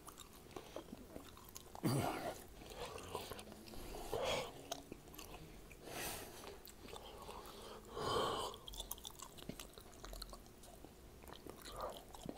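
Close chewing and mouth noises of a person eating raw ribeye steak: small irregular wet clicks, with a few louder short mouth sounds about two, four, six and eight seconds in, the one near eight seconds the loudest.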